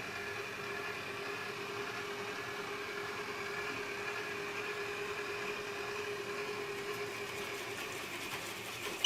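Proscenic 820S robot vacuum driving back to its charging dock with its suction motor switched off: a steady, low whir of its drive motors with faint wavering tones above it.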